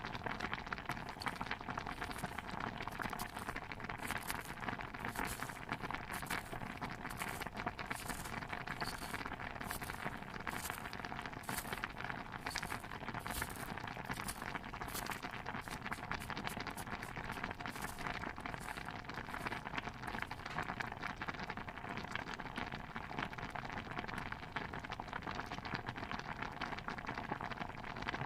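Layered kitchen ambience: a steady, dense bubbling-and-crackling bed, like a pot of stew simmering with a fire beside it. Over the first two-thirds a run of sharp, even taps comes about twice a second, then fades out.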